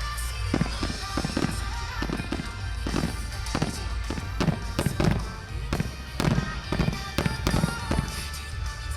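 Aerial fireworks bursting in rapid succession, a dense string of sharp bangs and crackles that thickens through the middle, over background music and a steady low rumble.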